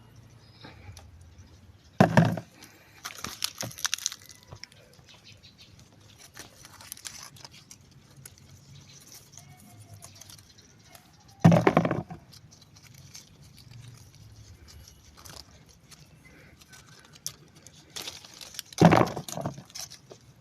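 Lime tree leaves and branches rustling and crackling as limes are picked: three loud rustles about eight to nine seconds apart, with fainter crackling after the first and the last.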